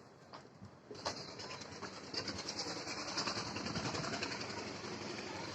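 An express train passing at high speed. It comes in with a sharp bang about a second in, then builds to a steady rush with a fast rattle of wheels running over the track.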